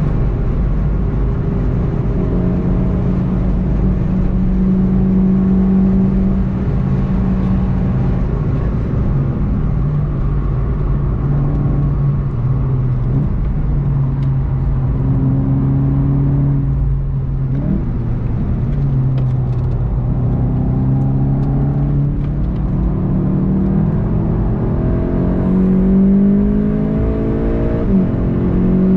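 Onboard sound of a VW Golf 7 GTI TCR's turbocharged four-cylinder engine running hard at about 140 km/h, with steady wind and road noise. Near the end the engine note changes repeatedly as the car brakes and changes gear.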